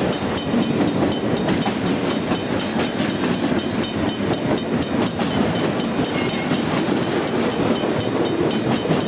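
Freight train's autorack cars rolling past close by: a steady rumble of steel wheels on the rails with constant rapid clicking and clacking.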